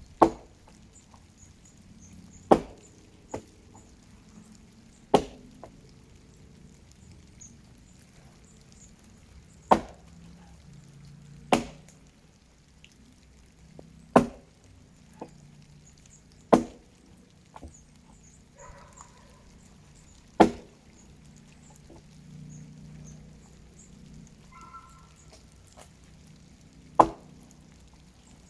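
Axe chopping into a dead tree: about nine heavy strikes at uneven intervals of two to six seconds, each a sharp crack, some followed by a lighter knock.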